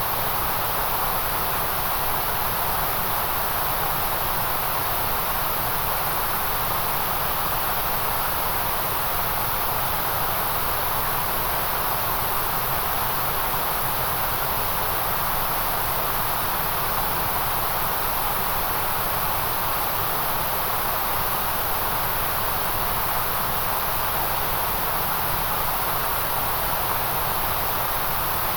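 Steady white noise: an unchanging hiss with a bright high edge, with no rhythm, breaks or other sounds.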